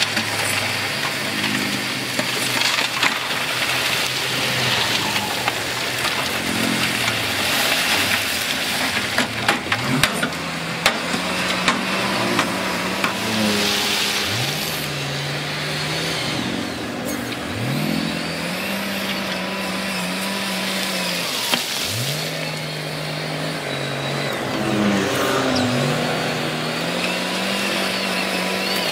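Heavy earthmoving machine's diesel engine working under load, revving up sharply and holding several times in a row, with a few sharp knocks about a third of the way through.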